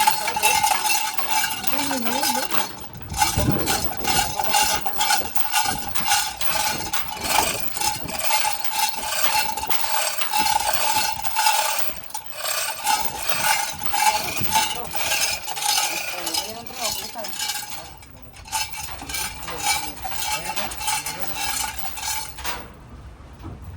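Metal scraping and clicking in a fast, dense rattle over a steady whine, as a tool works on metal parts of an anchor windlass brake. It breaks off briefly twice and stops shortly before the end.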